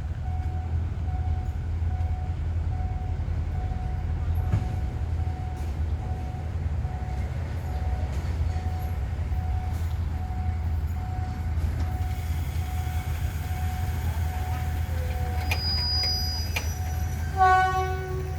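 Diesel locomotive idling with a steady low hum, while a faint beep repeats about once a second. Near the end the train gives one short horn blast.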